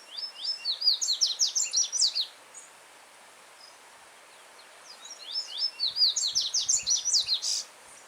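Yellow-bellied seedeater (coleiro-baiano) singing two fast phrases of short, sharp, falling whistled notes, the first at the start and the second a few seconds later. A steady rush of a stream runs behind.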